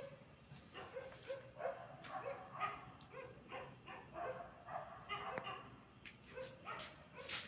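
A young pet crying over and over in short, high calls, about two or three a second.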